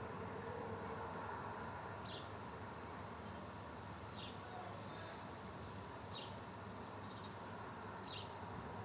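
A bird repeating a short, high, falling call about every two seconds, four times, over a steady background hiss.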